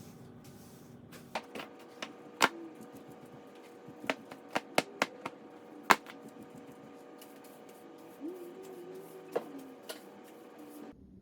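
Household handling noises: a dozen or so sharp clicks and knocks of objects being set down and moved, the loudest about two and a half and six seconds in, over a steady hum from an appliance. A short wavering tone sounds for about a second and a half near the end.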